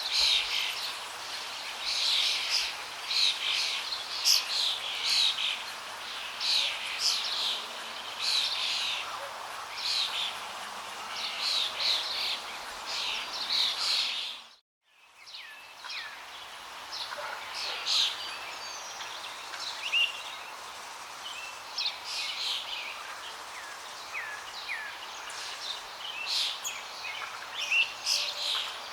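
Many small songbirds chirping and trilling in quick, overlapping short phrases over the steady rush of flowing water. About halfway through, everything dips briefly to silence and then comes back.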